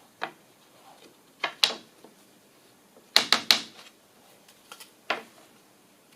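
A string of sharp knocks and clacks from hard objects being handled, with a quick, loudest cluster of three about three seconds in.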